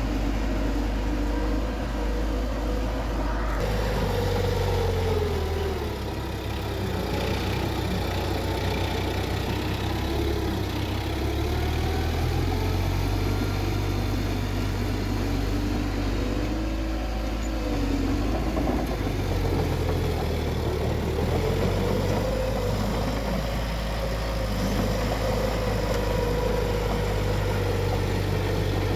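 Bulldozer's diesel engine running continuously, its pitch slowly rising and falling as the load changes while it works.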